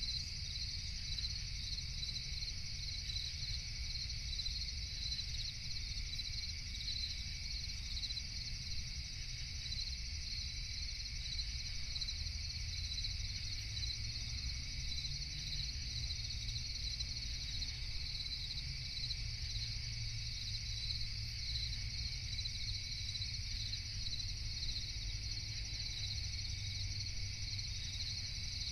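A steady chorus of night insects chirping, with a rapid, even pulsing high-pitched trill, over a constant low rumble.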